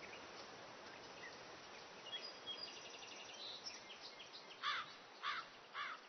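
Natural outdoor ambience: a steady hiss with scattered small bird chirps. From about four and a half seconds in, a bird starts a series of loud repeated calls, three in a row about half a second apart.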